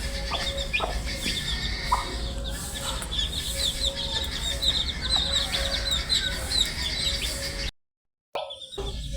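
Many baby chicks peeping together: a dense stream of short, high, falling chirps overlapping without pause, over a steady faint hum. The sound cuts out for about half a second near the end, then resumes.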